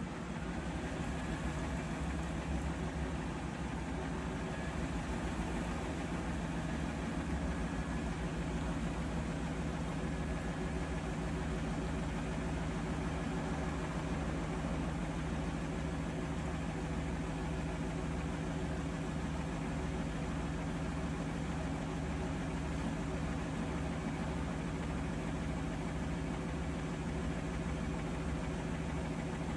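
Bosch Serie 4 front-loading washing machine spinning steadily, with a constant motor hum and an even low pulsing beneath it that does not pause.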